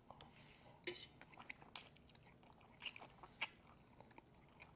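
Faint, close-up chewing of a mouthful of ramen noodles, with a few short, sharp wet mouth smacks spread through it.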